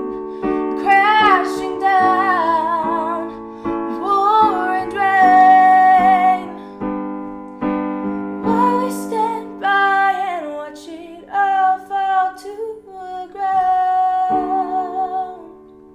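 A woman singing with piano accompaniment, her voice holding long notes with vibrato over chords struck every second or two. Near the end the singing stops and the last chord is left to ring and fade.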